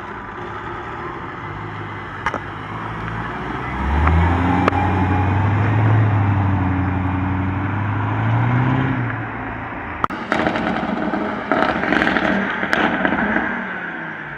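Car engine pulling hard, its note slowly rising for about five seconds, then dropping off into a rapid series of sharp pops and crackles from the exhaust on the overrun.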